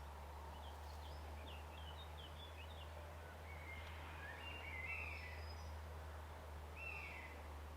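Small birds calling: a quick run of short chirps, then longer whistled phrases around the middle and again near the end, over a steady low rumble.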